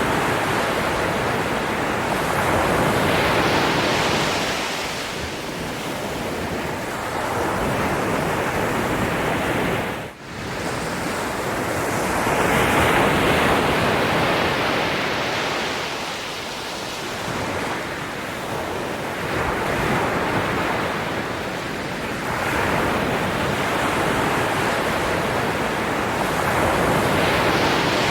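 Ocean surf: waves breaking and washing in, the rush swelling and easing every few seconds, with a momentary drop in sound about ten seconds in.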